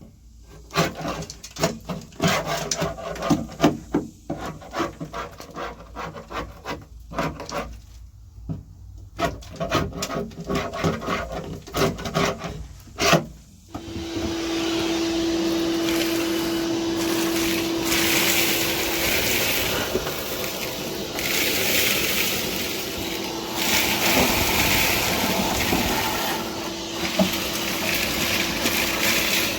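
Seam sealer being scraped off a car's floor pan with a hand tool: irregular scrapes and knocks. About 13 s in, a steady machine noise with a constant hum starts and keeps running.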